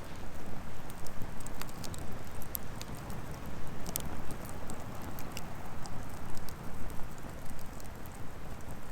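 Firewood burning in a Coleman Fire Disk fire pit: irregular sharp crackles and pops over a low, steady rush of flame.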